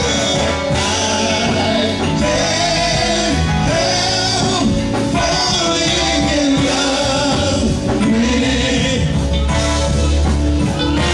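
Live gospel singing with band accompaniment: a lead voice sliding between held notes over a steady bass line.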